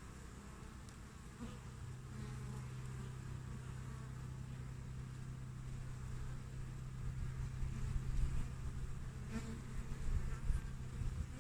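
Western honeybees buzzing at the hive entrance: a steady hum from the colony, with individual bees flying close past. A low rumble grows louder in the second half.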